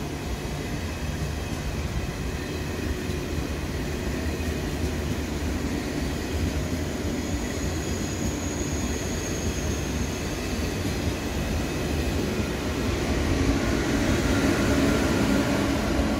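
KTX-1 high-speed trainset running past a station platform at low speed: a steady rumble of wheels on rail that grows louder near the end as the power car comes closer.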